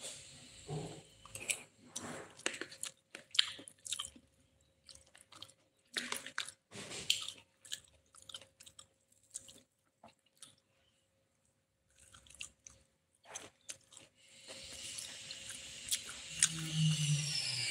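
Close-up chewing and crunching of a meal of rice with fried tempeh, tofu and nuggets, in irregular bites with short pauses and a brief lull about two-thirds of the way through. A steady hiss rises near the end.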